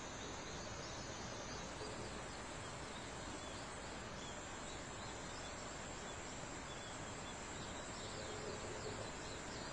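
Faint forest ambience at summer dawn: a steady, high insect trill over a low hiss, with small scattered bird chirps.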